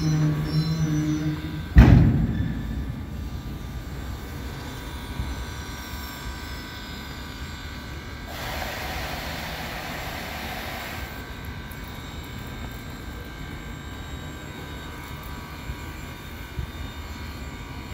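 A diesel- and steam-hauled train at a platform. A steady wheel squeal cuts off about two seconds in, just as a single loud bang sounds. The train then sits with a steady mechanical hum, and a hiss lasts about three seconds near the middle.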